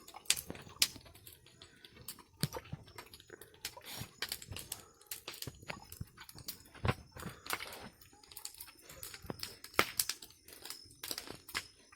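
A pig chewing and crunching its food: irregular sharp crunches and clicks, a few much louder than the rest.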